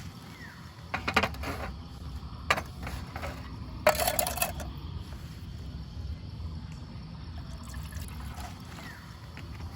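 Short splashes of liquid being poured, three brief bursts about a second, two and a half and four seconds in, over a steady low background noise.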